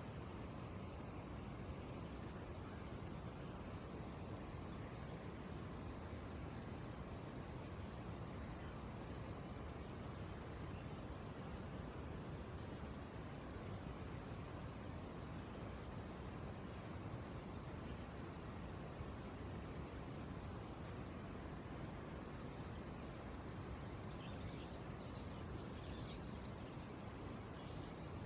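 Massed crickets chirping in a dense, steady, high-pitched trill.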